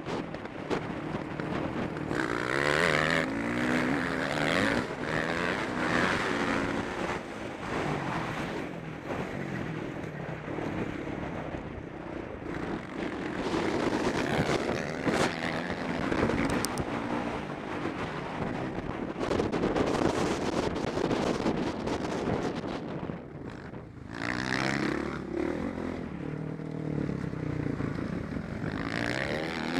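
Motocross bike engine heard close up from the rider's helmet, revving up and down over and over as the throttle opens and closes through gear changes, with a brief drop in revs a little past two-thirds of the way.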